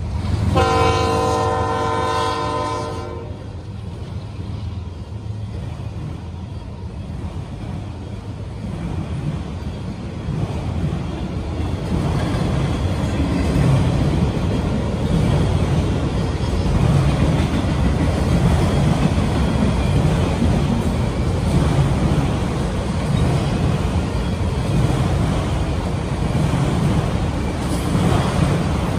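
Diesel locomotive air horn sounds one blast of about three seconds. Then a freight train of autorack cars rolls past close by: a steady rumble of steel wheels on rail that grows louder and stays loud.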